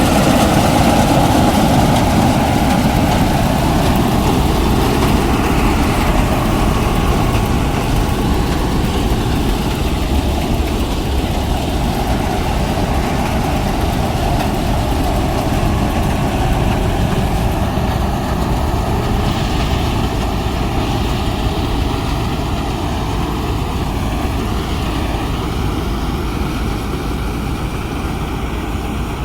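Heavy diesel farm-machinery engine running steadily, slowly getting fainter.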